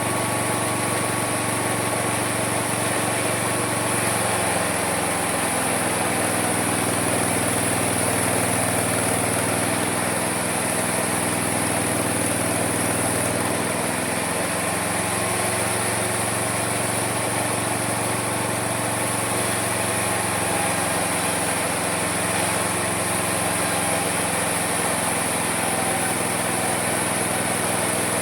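Homemade mini sawmill running without a break, its motor's pitch dipping and recovering several times as the blade takes load in the wood.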